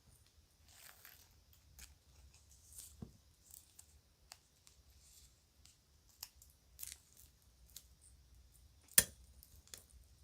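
Children's jewelry and bags being handled: scattered light clicks and short rustles, with one sharp, louder click about nine seconds in.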